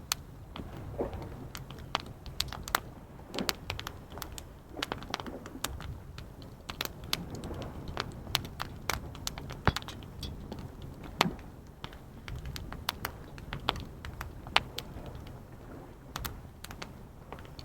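Wood campfire crackling, with frequent irregular sharp snaps and pops, a few much louder than the rest, over a low steady rush.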